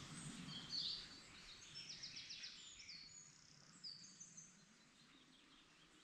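Quiet woodland with faint birdsong: small birds give high, thin calls and short phrases, with a quick run of notes about two seconds in and a few down-slurred notes after it.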